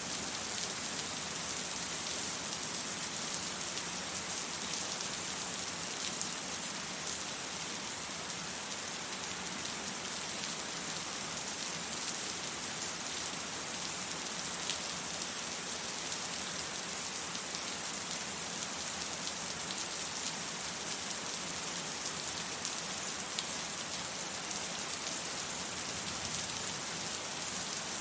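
Steady rain falling, an even hiss with small scattered drop ticks and no thunder.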